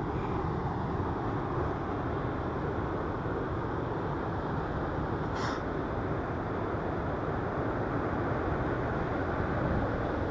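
Steady rush of wind and rolling noise on a bike-mounted camera's microphone while riding a mountain bike, with one short click about halfway through.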